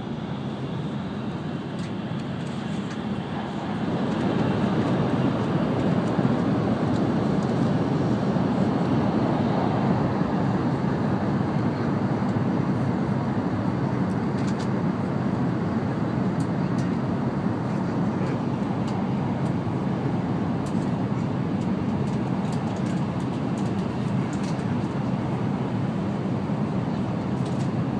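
Steady rumble and air noise of an N700-series Shinkansen running at speed, heard inside the passenger cabin. It gets clearly louder about four seconds in, as the train enters a tunnel.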